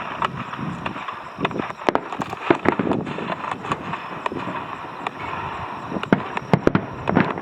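Fireworks going off: many sharp crackling pops at irregular intervals, a few louder cracks among them, over a steady background rush.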